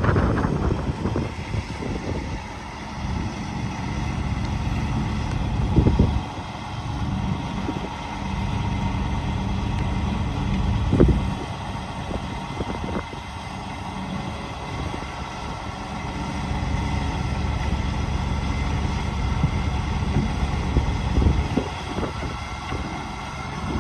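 Shantui bulldozer's diesel engine running steadily under load. Sharp knocks come about 6 and 11 seconds in, with a few smaller ones near the end.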